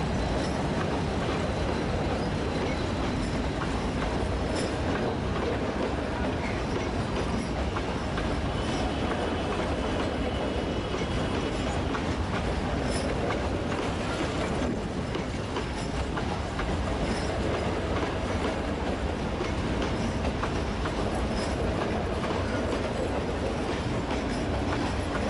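Metre-gauge passenger train arriving at a station, its wheels clattering over the rail joints in a steady rumble. A faint high wheel squeal comes in around ten seconds in.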